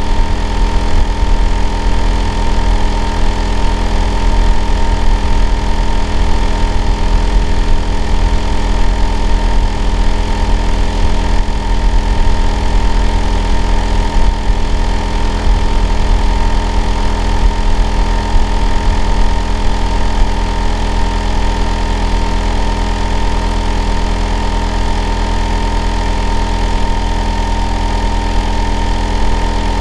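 Hitachi air-conditioner outdoor unit running continuously, a loud, steady low hum with a constant whine near 1 kHz and several fainter steady tones above it.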